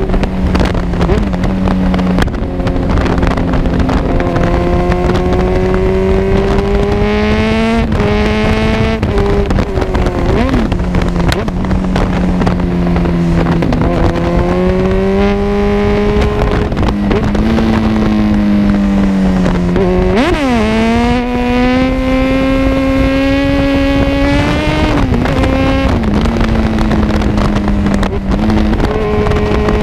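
Kawasaki Z1000's inline-four engine through an Arrow full exhaust system, ridden under way: the exhaust note rises and falls repeatedly with throttle and gear changes, with a quick drop and sharp rise about two-thirds of the way through.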